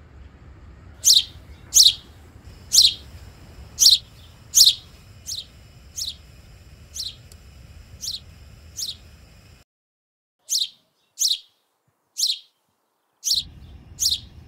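A bird calling: a series of sharp, high chirps, each sweeping quickly downward in pitch, about one every two-thirds of a second. The first few are the loudest; after a short gap near the end a second run of five more follows.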